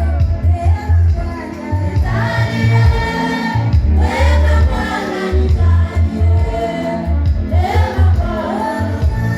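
Gospel worship song with several voices singing together over a strong, steady bass beat.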